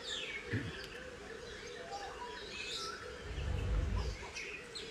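Many birds chirping and calling over one another in an aviary, short chirps and sliding whistled notes, over a steady low hum. A low rumble comes in about three and a half seconds in.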